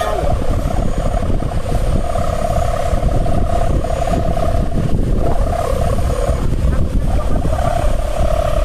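Strong wind buffeting the microphone with a heavy low rumble, over a steady droning hum that wavers and swells every second or two.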